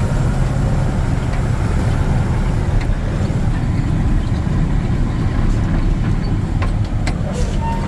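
Water truck's engine running steadily under way, heard from inside the cab, with a few sharp clicks near the end.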